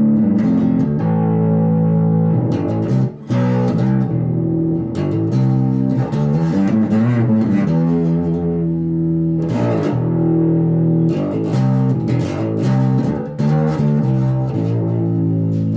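Epiphone Grabber electric bass played through an Aguilar Tone Hammer preamp with AGS on and the pickup in humbucker mode: a continuous run of sustained, plucked notes, with a slide in pitch around seven seconds in, stopping abruptly near the end.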